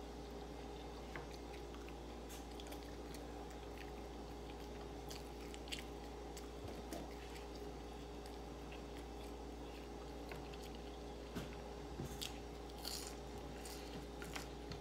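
A person eating close to the microphone: biting and chewing a hamburger, then steak fries, with scattered small crunches and mouth clicks over a faint steady hum.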